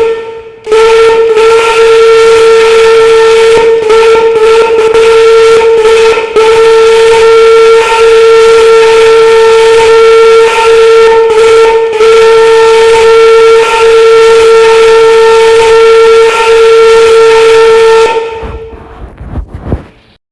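A train whistle sounding one steady, very loud note that is held for about eighteen seconds, with a few brief dips, then fades out near the end.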